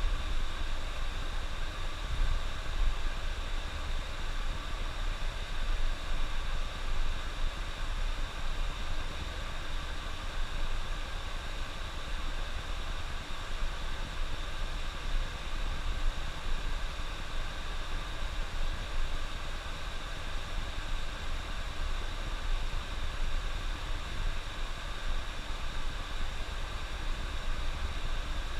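Steady low rumble with a constant hiss over it from a coach bus driving on the highway: engine and road noise heard from inside the bus.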